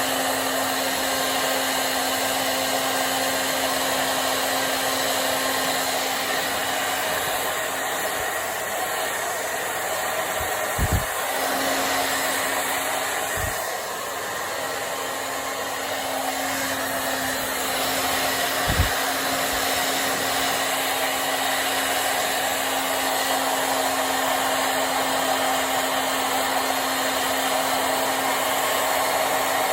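Handheld hair dryer running steadily, a noisy blowing rush over a constant motor hum, with three brief low thumps in the middle stretch.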